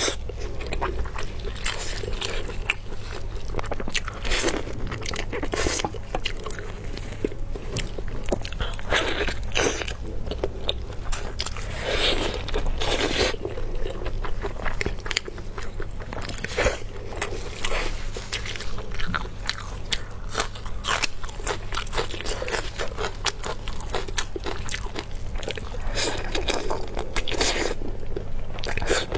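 A person biting and chewing crunchy food close to the microphone: repeated crisp crunches and crackles with wet chewing between them, over a steady low hum.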